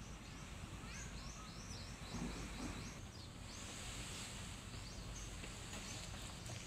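Small birds chirping: a quick run of short, high, downward-sliding chirps a second or so in, and a few more later, over a steady low outdoor rumble.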